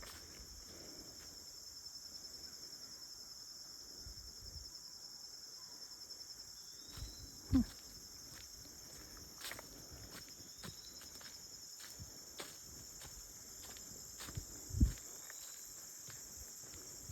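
Steady high-pitched chorus of insects, with scattered light footsteps and two heavier low thumps, one about halfway through and one near the end.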